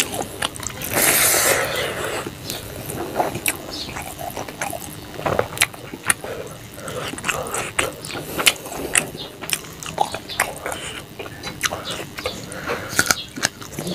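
Close-up eating sounds: a person chewing a mouthful of rice and pangas fish curry, with many short wet smacks and clicks from the mouth and the sticky squish of fingers working the rice. About a second in comes a longer hissing stretch.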